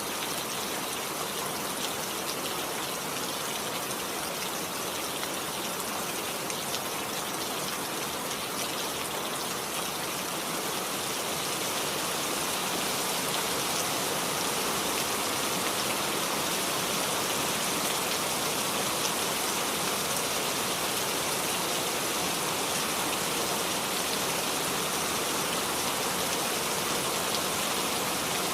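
Steady rain falling, a dense even hiss that grows a little louder about twelve seconds in.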